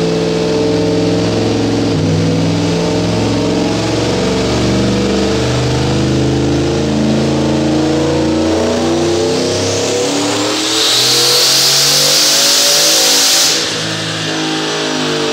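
Car engine running hard under acceleration, its pitch shifting in steps. About 11 seconds in a loud hissing rush joins it and cuts off sharply two or three seconds later.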